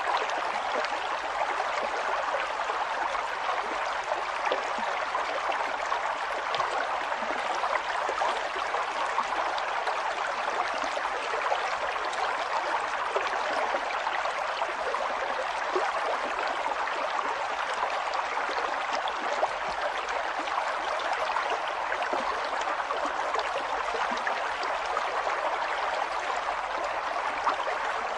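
River water flowing and babbling over rocks, a steady rush with constant small splashes and gurgles.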